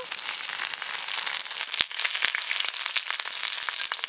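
Fish-roe parcels wrapped in bottle gourd leaves frying in a little oil on a tawa, sizzling with many small crackles and pops.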